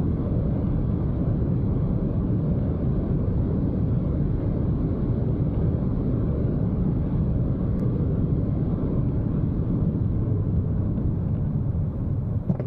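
Audi RS6 C8 travelling at speed: a steady low rumble of road and wind noise with no revving or gear changes heard.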